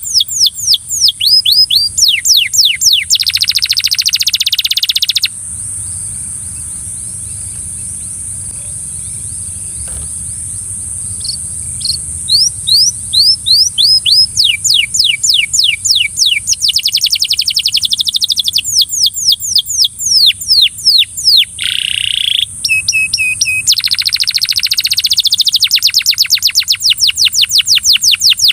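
A Belgian canary singing in fast rolls of repeated, quickly falling whistled notes mixed with buzzy trills. The song breaks off about five seconds in and starts again about six seconds later, over a steady high hiss.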